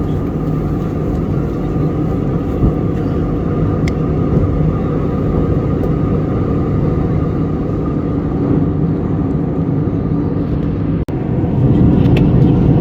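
Steady rumble of an Airbus A321neo airliner heard from inside the cabin. About eleven seconds in, the sound drops out for an instant and then comes back louder.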